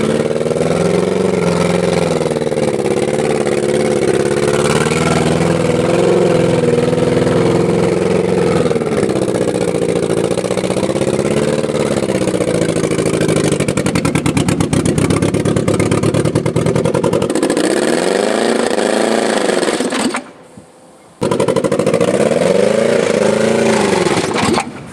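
Hyundai Coupé petrol engine, lubricated with frying fat instead of engine oil, running hard under load and revving up and down. For a few seconds in the middle it goes into a rapid, even pulsing, and the sound drops out for about a second around twenty seconds in.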